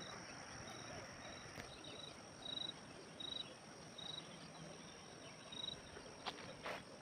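Insects droning steadily at a high pitch. A short, higher chirp repeats about once a second for several seconds, over faint steady background noise.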